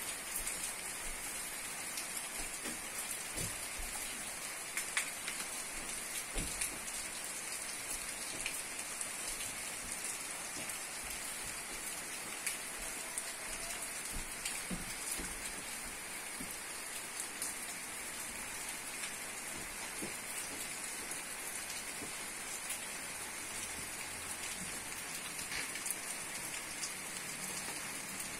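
Steady rain falling, an even hiss with scattered small drops ticking close by.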